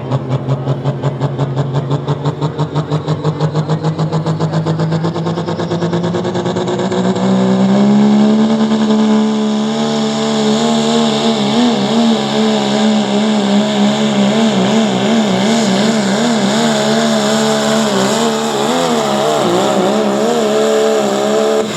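1997 Dodge Ram pulling truck's diesel engine running hard under load on a pull: a fast, even throbbing for the first six seconds or so, then the engine pitch rises and holds high, wavering up and down, until it cuts off suddenly near the end.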